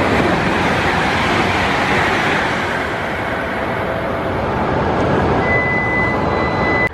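Shinkansen trains running through the station: a loud, steady rush of wheel and air noise. A thin, high steady tone joins about five and a half seconds in, and the sound cuts off suddenly at the end.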